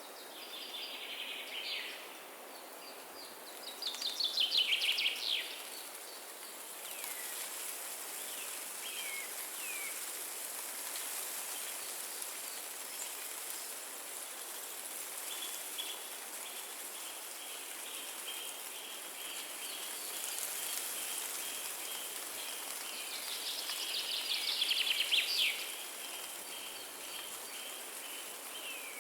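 Forest ambience: songbirds singing fast, descending trilled phrases, loudest about 4 s in and again near the end, with a few short chirps between. From halfway on, a steady pulsing trill runs on. All of it sits over a steady high hiss of wind in the trees.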